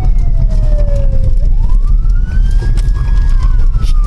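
Police car siren in a slow wail: it falls in pitch, rises about a second and a half in, holds briefly, then falls again. It sounds over the steady low rumble of the moving patrol car.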